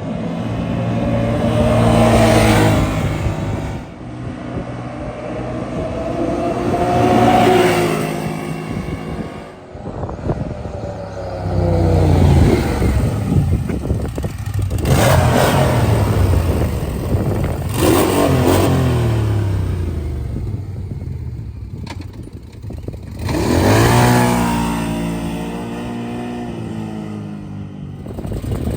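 Can-Am Maverick Trail/Sport's Rotax V-twin engine running through an RPM stainless steel slip-on sport muffler, a deep exhaust note. It accelerates and eases off repeatedly: the pitch rises and falls in several loud swells, with sharper revs about 15 and 18 seconds in.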